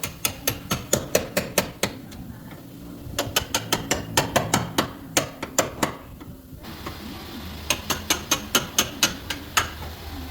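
Quick, sharp hammer blows on car body sheet metal, about four to five a second, in three runs with short pauses between.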